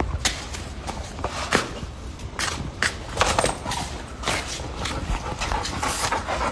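Presa Canario puppy moving about: irregular taps and scuffs, such as paws and claws on the ground, over a steady low rumble.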